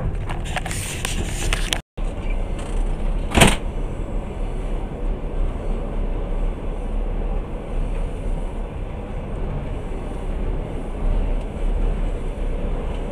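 Passenger train running, heard from inside the carriage: a steady rumble of wheels on the rails, with a few clacks in the first two seconds and one sharp knock about three and a half seconds in. The sound cuts out for a moment about two seconds in.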